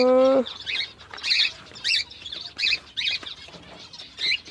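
Small cage birds chirping, short high calls repeating about once or twice a second.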